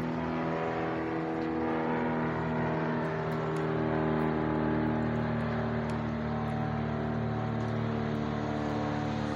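A vehicle engine running steadily at low speed, a continuous hum that dips and rises slightly in pitch around the middle.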